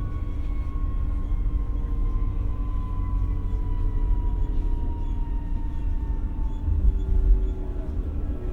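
Inside an X60 electric commuter train running: a steady low rumble of wheels on rail under an electric traction whine that slowly falls in pitch as the train slows. A heavier low bump about seven seconds in.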